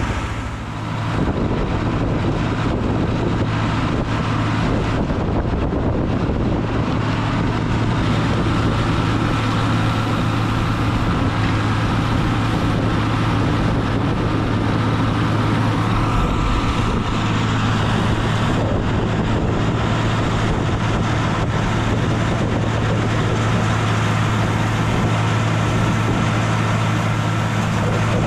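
Farm tractor engine running steadily with a constant low hum and machinery noise.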